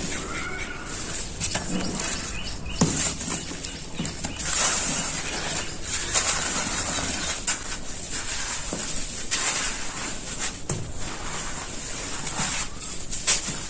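Dry, crumbly sand or cement-like material being crushed and crumbled, with a steady grainy crackle and irregular sharp crunches and snaps.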